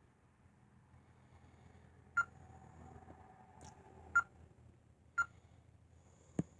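Three short, quiet electronic beeps about one to two seconds apart, then a sharp click near the end.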